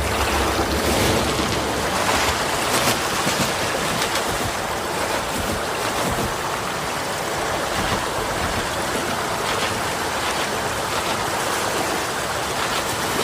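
Sea water rushing and washing as surf, a steady noise with a few brief splashes.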